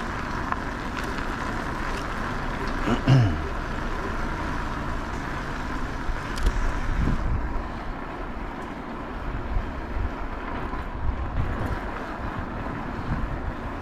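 Riding noise from an e-bike in motion: a steady rush of wind and tyres with a thin, steady whine underneath. About three seconds in, a brief tone falls quickly in pitch.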